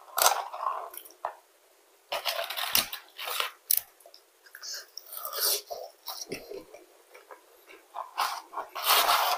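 Close-up chewing and crunching of McDonald's french fries in irregular bursts, with the paper fry carton rustling as fries are taken from it, picked up by a clip-on microphone.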